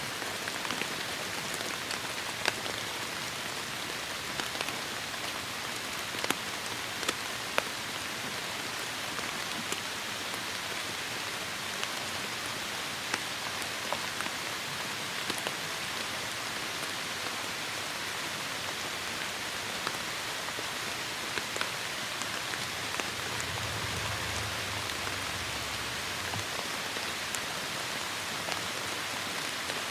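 Heavy rain falling steadily, an even hiss with individual drops ticking through it. A low rumble comes in briefly about three-quarters of the way through.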